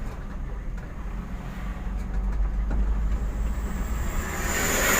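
Steady low rumble of a vehicle on the move, heard from inside the cab, with a few faint knocks. Near the end a loud hiss swells up and peaks, carrying a thin high whistle.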